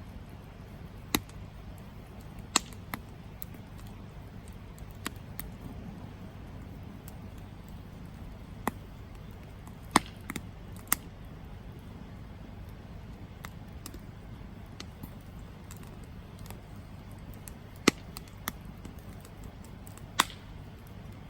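Wood campfire burning with a low steady rumble, broken by sharp crackles and pops at irregular intervals, the loudest about a second in, ten seconds in and twice near the end.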